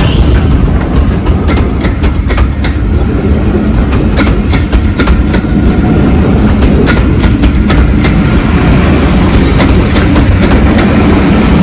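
A train running on the rails with a steady heavy rumble and frequent irregular clicks of wheels passing over rail joints.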